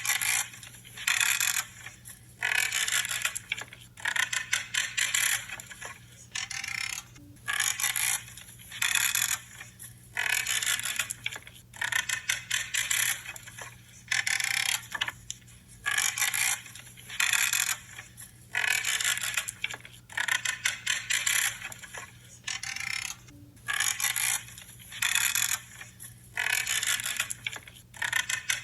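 Branches being cut one after another, each cut a short creaking snip lasting under a second, repeating about every one to one and a half seconds.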